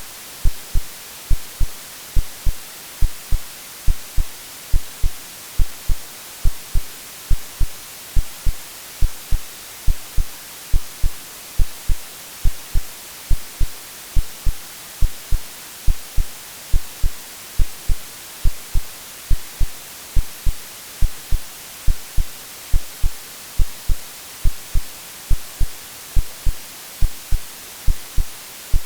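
Artificial heartbeat sound, a steady lub-dub of paired low thumps repeating evenly, laid over a continuous white-noise hiss. It is an AI-generated womb-like soothing sound meant to settle a baby to sleep.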